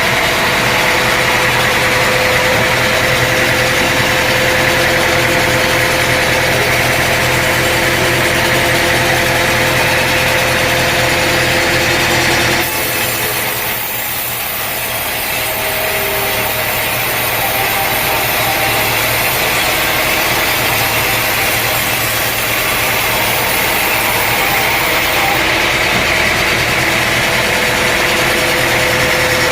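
Sawmill running: its engine holds a steady note while the saw cuts through a log. About 13 seconds in the sound changes abruptly and drops, then builds back up over several seconds.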